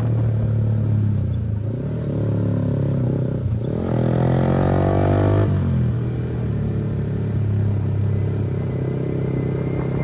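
Kawasaki ZX-10R's inline-four engine running under way. Its pitch dips about two seconds in, then rises steeply for about a second and a half as it revs and accelerates, and falls back to steady running.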